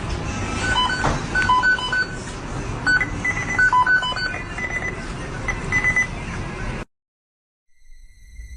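Short electronic beeps at two or three different pitches, sounding irregularly, over steady background noise; the sound cuts off about seven seconds in.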